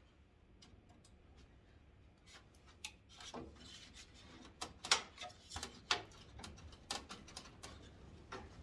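Irregular light clicks and scraping of a hand tool working rusty screws out of a pickup truck's grille, starting about two seconds in, the sharpest click near the middle.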